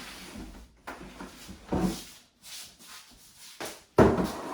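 Household objects being handled and set down, with rubbing and light knocks. There is a clunk nearly two seconds in and a sharp, loud knock about four seconds in.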